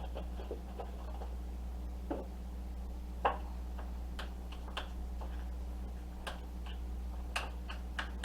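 Scattered light clicks and taps of a spoon and utensils against a mixing bowl while heavy cream is added to the potato filling, over a steady low electrical hum.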